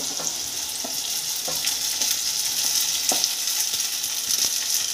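Diced potato and green chillies sizzling steadily in ghee in a non-stick kadhai while soaked sago pearls are pushed in from a plate, with about five short knocks of a spatula against the pan.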